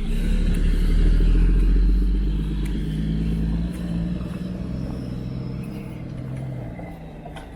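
A motor vehicle's engine and tyres passing close by, loudest about a second in and then fading as it drives away.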